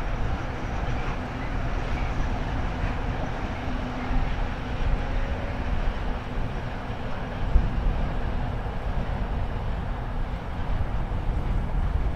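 Train rolling past, a steady wheel-on-rail noise, with wind buffeting the microphone in a low rumble.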